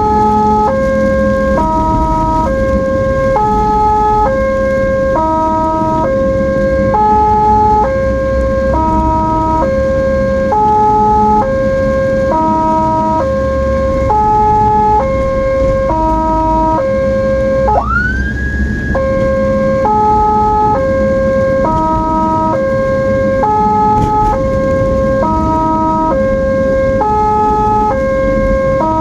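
Ambulance two-tone hi-lo siren, switching back and forth between two pitches about every two-thirds of a second, over low road and engine rumble. A single rising tone cuts in briefly about two-thirds of the way through.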